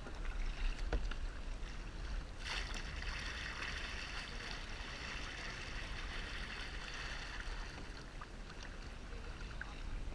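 Seawater splashing and rushing around a kayak hull: a surge of splashing starts suddenly about two and a half seconds in and fades over several seconds, over a steady low rumble.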